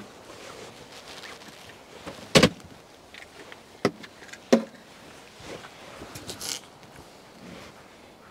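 A few sharp knocks and clunks of gear being handled in and around a car. The loudest is a double knock about two and a half seconds in, then two single knocks a little over a second apart, and a light rustling clatter near the end.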